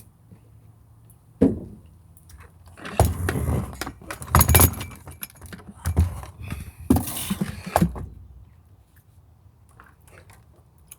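Hard plastic vacuum-cleaner parts being handled: a sharp knock, then a run of clattering and knocking from about three to eight seconds in.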